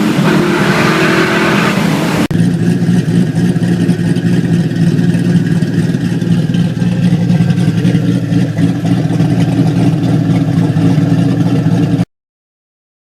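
Twin-turbocharged LS3 V8 of a 2006 Pontiac GTO running at freeway speed. An abrupt change about two seconds in gives way to a steady, low engine and exhaust drone, which cuts off suddenly near the end.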